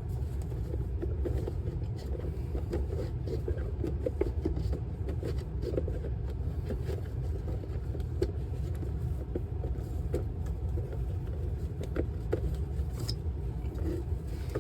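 Steady low rumble with scattered light clicks and scrapes of hand work on a roof dryer vent cap, clearing lint that keeps its damper door from opening and closing.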